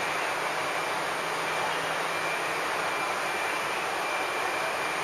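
Steady running noise of a JR 211 series electric multiple-unit train pulling out over the station tracks, with a faint high thin tone over it and no separate rail-joint clacks.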